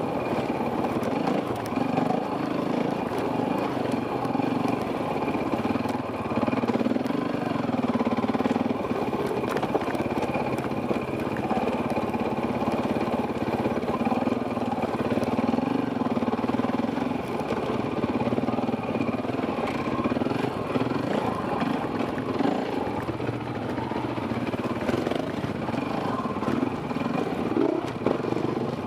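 Enduro dirt-bike engine running along a trail, its pitch rising and falling with the throttle, heard from a helmet camera with wind and trail noise.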